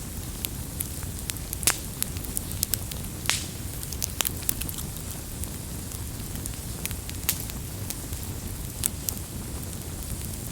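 Open wood fire crackling: a steady low rumble and hiss of burning, with sharp pops at irregular intervals a second or more apart.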